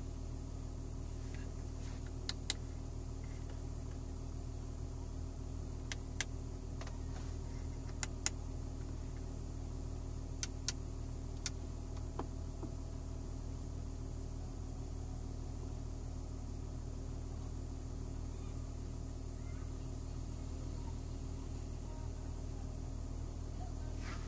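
Audi A6 3.0 TDI V6 diesel idling steadily, heard as a low hum inside the cabin. A scattering of sharp clicks in the first half come from the MMI control buttons.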